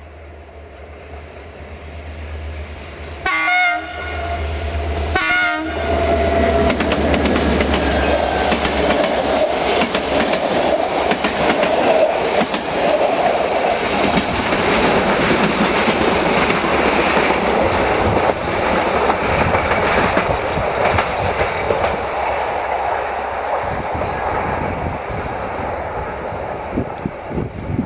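Diesel locomotive hauling a passenger train approaches with its engine humming and sounds two short horn blasts, about three and five seconds in. Then the coaches roll past, loud and steady, their wheels clacking over the rail joints.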